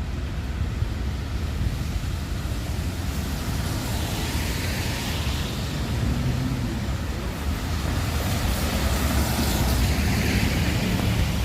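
Wind buffeting the microphone with a steady low rumble, over the hiss of traffic on a wet road that swells twice as cars pass.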